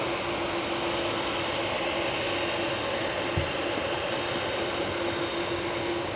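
Steady jet engine noise from a Boeing 747-8F freighter, a constant rushing sound with a steady drone, and one short knock about three and a half seconds in.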